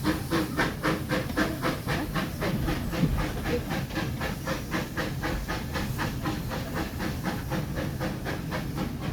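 Steam locomotive working along at a steady pace, its exhaust chuffing in an even rhythm of about four to five beats a second over a constant hiss of steam and running noise.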